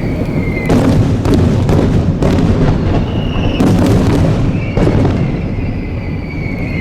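Fireworks display: sharp bursts go off every second or so over a continuous rumble of booming shells. High whistling tones slide down in pitch between the bursts.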